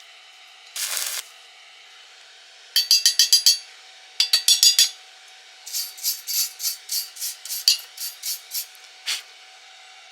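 Hand tool scraping over a weld in rapid strokes: a brief scrape, then two fast runs of about seven strokes each, then a slower run of about a dozen strokes, and one last stroke near the end.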